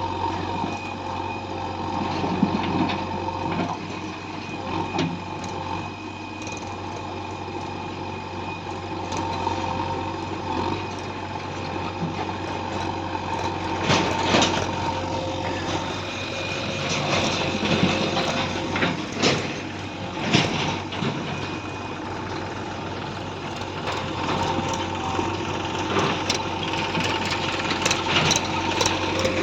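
Heavy diesel machine engine running steadily, with sharp clanks and knocks from the working machine at several points, most of them in the second half.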